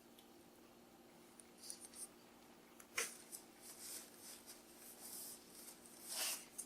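Soft crinkling rustles and clicks of the wrapped sandwich and its paper being handled, with a sharp click about three seconds in and a louder rustle near the end.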